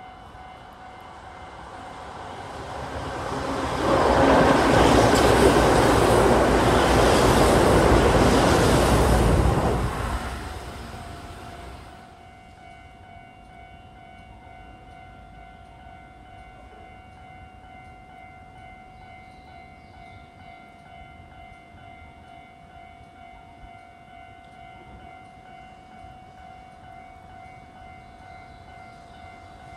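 A Keihan electric train passes the station at speed. Its rumble builds over about two seconds, stays loud for about six seconds, then dies away within two more. After it, only a faint steady background with a thin held tone remains.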